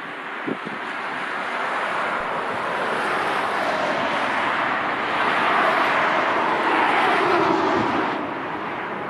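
Jet airliner engines passing, a rushing noise that grows louder, peaks from about five to eight seconds in, then drops back near the end.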